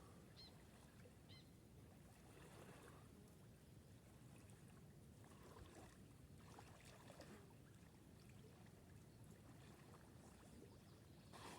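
Faint water sloshing and splashing from a person swimming in a lake.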